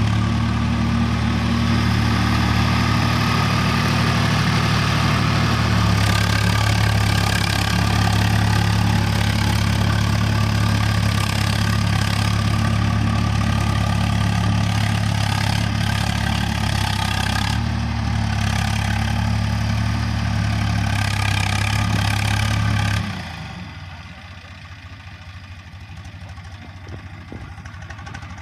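Swaraj 855 tractor's three-cylinder diesel engine running steadily under load while ploughing. Near the end its sound drops suddenly and it runs much quieter.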